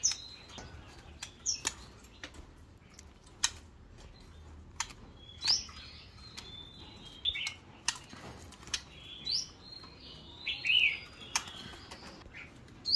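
White-rumped shama giving short, scattered chirps, several of them quick upward sweeps, with sharp clicks at irregular intervals.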